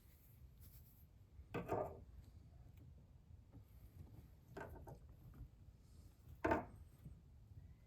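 Three short scraping clunks about a second and a half, four and a half, and six and a half seconds in, over a low steady hum: a small piece of steel for a bracket being cut and handled with hand tools.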